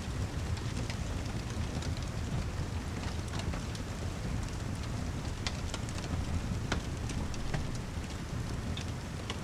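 Layered rain-and-fireplace ambience: steady heavy rain over a low rumble, with scattered sharp ticks and pops throughout.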